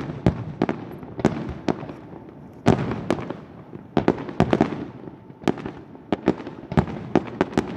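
Aerial fireworks bursting: an irregular run of sharp bangs and cracks, several a second, some coming in quick clusters, each with a short echoing tail.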